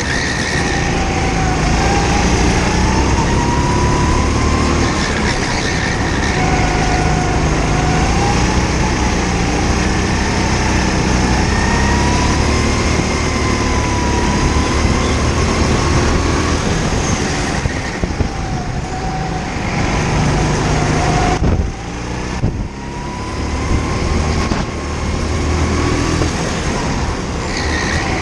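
Indoor kart's engine running under the driver, its pitch rising and falling as it speeds up and slows for corners, with a sharp drop about 21 seconds in as the throttle is lifted.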